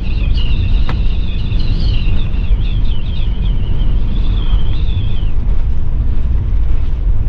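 Driving noise inside a motorhome in strong wind: a loud, steady low rumble of wind buffeting and road noise. A high, wavering whistle runs over it and stops about five seconds in, and there is a single click about a second in.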